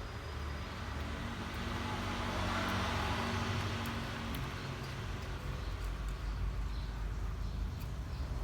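Road traffic noise: a vehicle passing, its noise swelling to a peak a few seconds in and fading again, over a steady low rumble, with a few faint light clicks.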